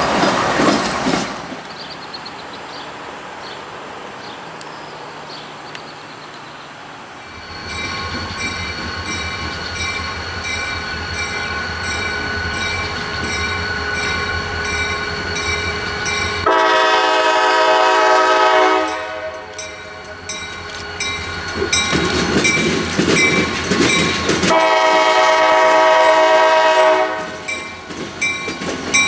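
CN diesel locomotives run past loudly for the first second or so. Then a Wheeling & Lake Erie freight led by an EMD SD40-2 approaches with a steady low engine rumble. It sounds its horn in long blasts from about halfway through, with another long blast near the end.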